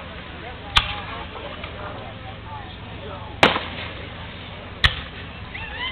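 Aerial fireworks shells bursting overhead: three sharp, loud bangs, the first about a second in, then two more close together after about three and a half seconds.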